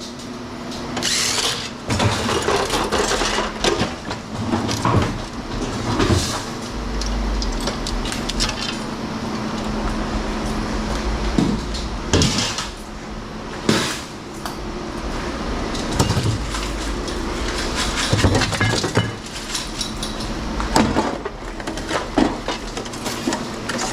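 Irregular metal clanks, knocks and rattles from an aluminum light fixture being pried and knocked apart with hand tools, over a steady low hum.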